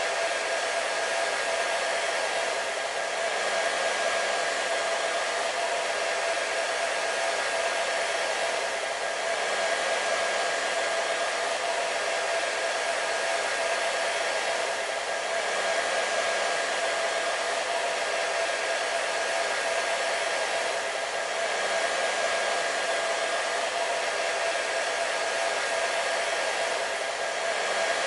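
Hair dryer running steadily: a constant rush of air over a motor hum with a faint higher whine, swelling slightly about every six seconds.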